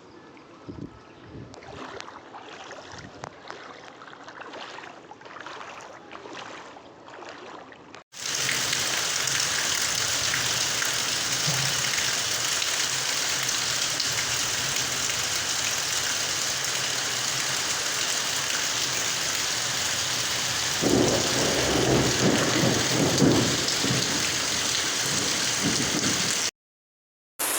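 Heavy rain: a loud, steady hiss that starts suddenly about eight seconds in, with a few louder surges a little later. Before it come several seconds of quieter, softer water sounds with scattered small splashes.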